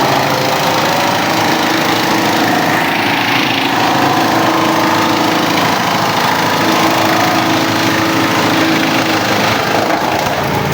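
Wood chipper's engine running steadily with no wood being fed.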